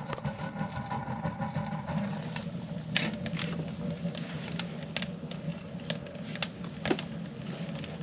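Kindling fire in a wood stove burning hard with the door shut and the damper open, drawing hard: a steady draft rumble with sharp crackles and pops every so often.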